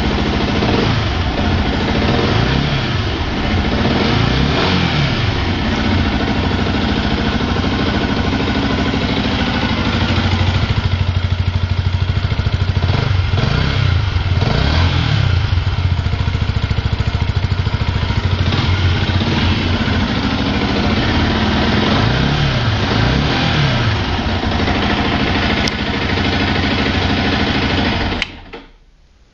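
Yamaha YZF-R125's single-cylinder four-stroke engine on its stock exhaust, idling and revved in short blips several times, the pitch rising and falling with each. The sound drops away suddenly about a second before the end.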